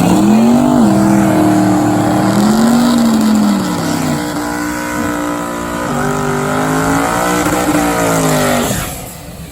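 Drag race car engine running hard, its pitch climbing and dropping several times, then falling away sharply near the end.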